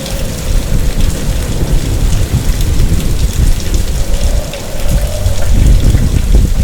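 Typhoon storm: heavy rain pouring under a deep, continuous rumble, which grows heavier about five seconds in.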